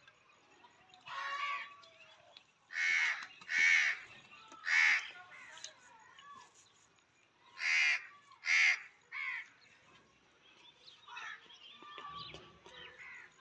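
Bird calling loudly, five short calls in all: three about three to five seconds in, then two close together near eight seconds, with fainter calls in between.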